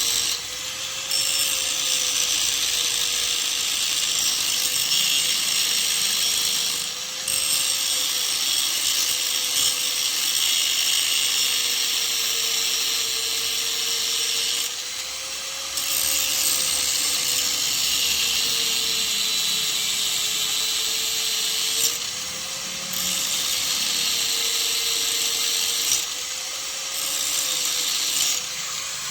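Angle grinder cutting in several long passes of a few seconds each, its motor whine running on steadily through the brief pauses when the disc is lifted off the work.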